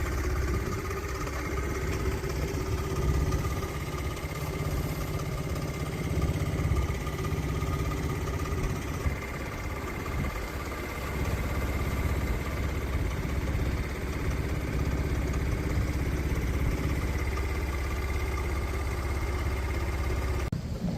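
Motorcycle engine running steadily, its note shifting briefly about halfway through.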